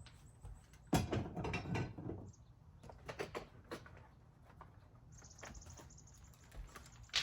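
Small clicks and clatter, with a burst of them about a second in and a few more taps a couple of seconds later, then a short high, rapidly pulsing note about five seconds in.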